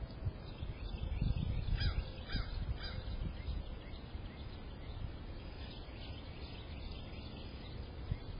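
Birds calling, picked up by a Blink Mini security camera's microphone: three or four quick down-slurred calls about two seconds in, with fainter calls later, over a low rumble.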